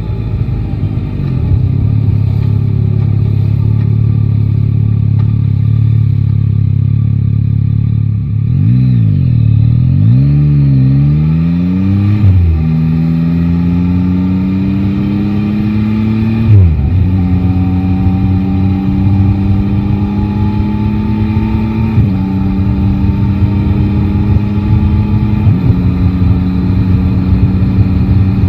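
Yamaha Tracer 9 GT's 890 cc inline three-cylinder engine: a steady low note for several seconds, then the revs swing up and down, and from about halfway it pulls away, climbing in pitch through the gears with three upshifts.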